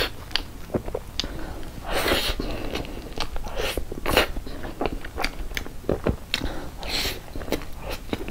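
Close-miked mouth sounds of eating soft cream cake from a spoon: chewing with many short wet clicks and smacks.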